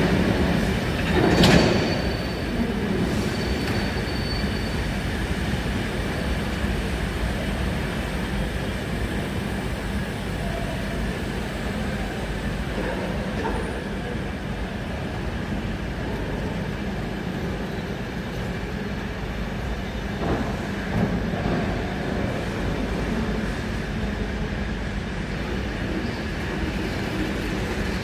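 Passenger train running along the track, heard from inside the carriage: a steady rumble of wheels and engine. A sharp knock comes about a second and a half in, with a faint high squeal in the first few seconds.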